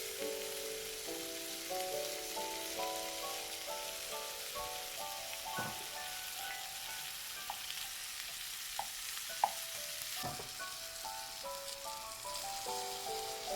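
Food sizzling steadily in a frying pan, with two sharp knocks, one about a third of the way in and one about three quarters in. Gentle melodic background music plays over it and drops away in the middle.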